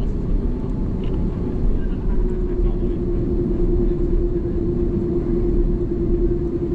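Airbus A330 cabin noise with the engines running: a steady low rumble under a droning hum that grows stronger about two seconds in.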